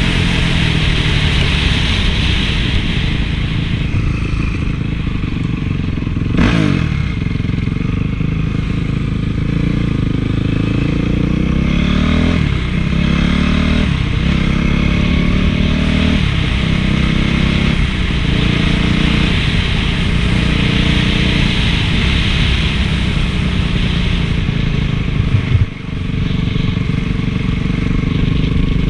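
Honda CRF450 four-stroke single-cylinder motocross engine being ridden hard, its pitch climbing and dropping again and again as the throttle opens and it shifts or backs off. A sharp knock comes about six seconds in, and the engine briefly dips near the end.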